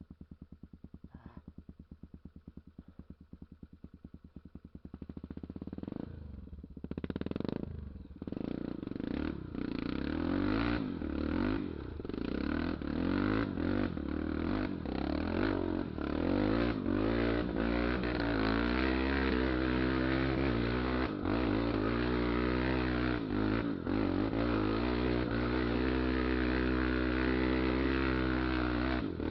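Honda XR 250 Tornado's single-cylinder four-stroke engine running at a low, steady beat for about five seconds, then revved hard with its pitch rising and falling as the throttle is worked under load, with clattering knocks throughout.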